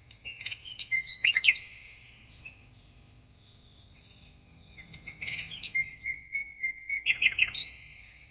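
Birds chirping and twittering, in two busy bouts: one about a second in and another from about five seconds in.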